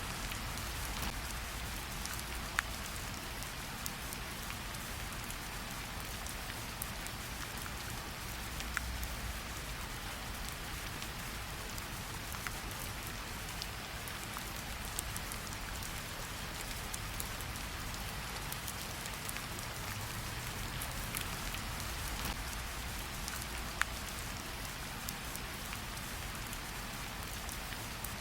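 Steady rain falling, with individual drops ticking sharply now and then.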